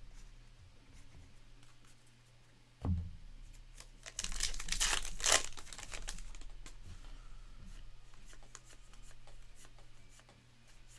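A dull knock about three seconds in, then a trading-card pack wrapper torn open and crinkled for a couple of seconds, followed by faint ticks of cards being handled.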